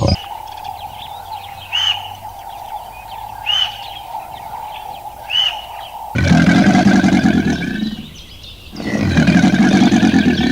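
Three short bird chirps over a steady high hum, then a large animal gives two long, loud, low calls, each about two seconds.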